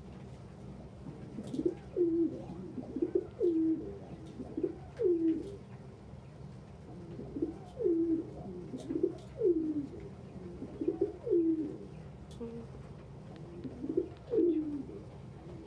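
Domestic pigeons cooing, a run of low, bending coos repeated every half second to second in short phrases.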